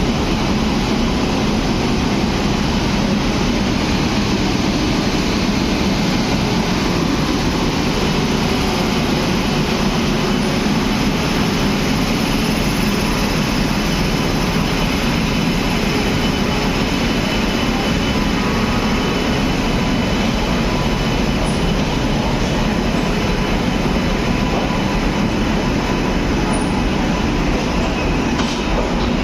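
Howrah-Patna Janshatabdi Express passenger train moving out of the station, a steady rumble and rattle of its wheels on the track.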